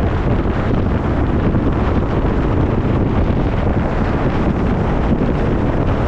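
Heavy wind buffeting the microphone, a loud, steady rushing noise, with the sound of the boat on the water beneath it.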